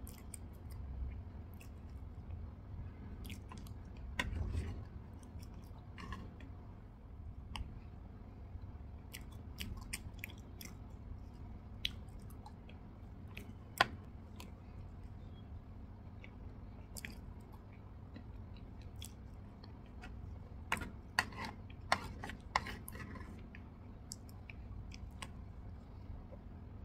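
Close-up eating sounds: chewing and mouth sounds from soft strawberry Swiss roll with cream, with scattered sharp clicks and scrapes of a metal spoon on a ceramic plate, several in quick succession late on.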